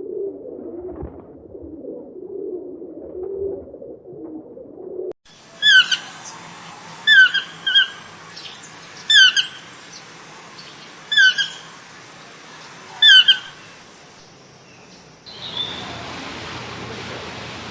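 Geese honking in a low, uneven chorus, then a bird's sharp call repeated six times, about one every one to two seconds. A steady hiss takes over near the end.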